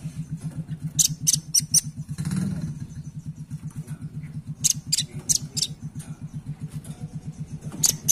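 Velvet-fronted nuthatch calling in three quick runs of three or four sharp, high notes. Underneath runs a steady, rapid low pulsing, like an engine idling.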